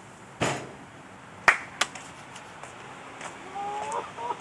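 Cookware being handled: three sharp knocks and clicks in the first two seconds, then a brief rising tonal sound near the end.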